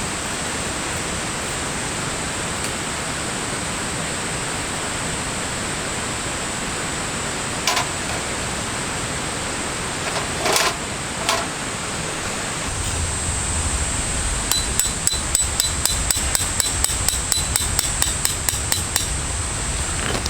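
Steady high-pitched insect drone of a summer forest. Partway through come a few single sharp knocks, and in the second half a fast, even run of sharp metallic taps, about four to five a second, like hammering.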